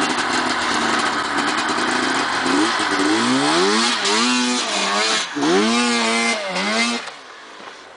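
2009 Arctic Cat M1000 snowmobile's two-stroke twin engine revving hard, its pitch climbing and falling several times as the throttle is worked. About seven seconds in the engine sound falls away sharply.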